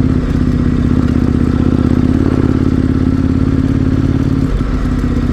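KTM 1090 Adventure R's V-twin engine running steadily while riding along a dirt rail bed, with brief shifts in the engine note shortly after the start and again near the end.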